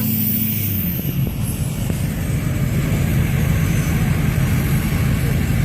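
Pickup truck engine running with a low rumble; about a second in, its steady drone turns rougher and uneven.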